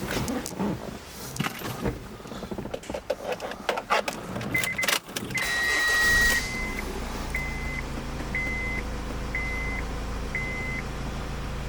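A Honda car being started: clicks and knocks, then the engine cranks and catches about five and a half seconds in and settles to a steady idle. A dashboard warning chime beeps about once a second alongside.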